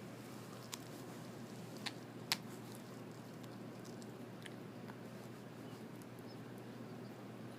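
A dachshund chewing a chicken foot: a few sharp crunching clicks, the loudest about two seconds in, over a steady low hum.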